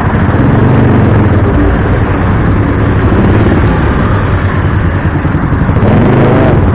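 Motorcycle engine running steadily while riding in traffic, under a loud, even rush of road and wind noise.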